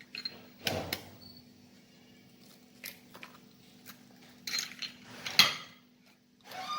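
A few separate knocks and clatters of kitchen dishes and utensils being handled, the loudest near the end, over a faint steady hum.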